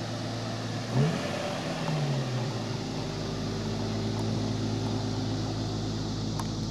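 2003 Nissan 350Z's 3.5-litre V6 idling steadily, with one short rev about a second in that rises and settles back to idle.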